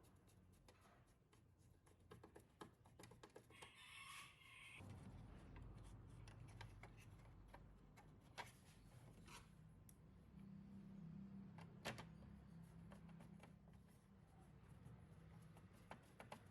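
Near silence: faint scattered clicks and taps over a low hum, which becomes a little louder about five seconds in.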